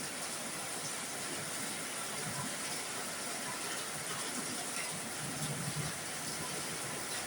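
Heavy rain falling on a roof: a steady, dense hiss of drops.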